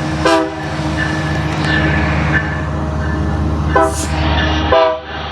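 Metrolink diesel locomotive running steadily, with three short horn blasts: one right at the start and two more close together near the end.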